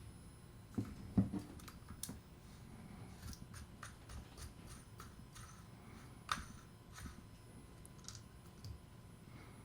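Scattered light clicks, taps and low knocks of small parts and tools being handled while a fishing reel is worked on, with one sharper click a little past the middle.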